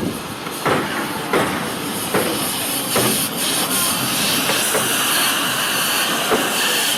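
Rx207 steam locomotive working: exhaust chuffs at a slow, even beat, about one every three-quarters of a second, over a steady hiss of steam that grows stronger from about three seconds in.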